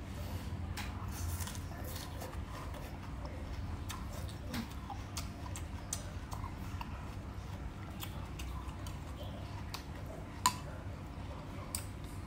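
Chewing raw water chive greens: irregular crisp crunches and small wet mouth clicks over a steady low hum. One sharp click, the loudest sound, comes about ten and a half seconds in.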